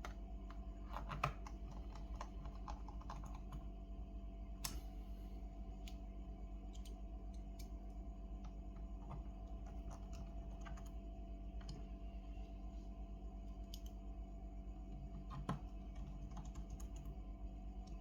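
Scattered light clicks and taps, keyboard-like, over a steady electrical hum: a small cluster about a second in, and single sharper clicks near five seconds and near the end.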